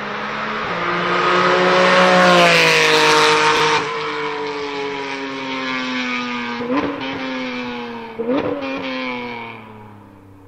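Porsche 718 Cayman GT4's naturally aspirated flat-six at high revs as the car passes at speed, the note dropping abruptly about four seconds in. The engine note then falls steadily under braking, with two sharp blips of revs about seven and eight and a half seconds in, typical of downshifts, and fades near the end.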